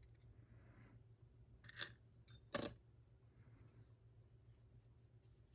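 Two light metallic clinks, a little under a second apart: small padlock parts, such as a tiny pin, being set down on a hard surface.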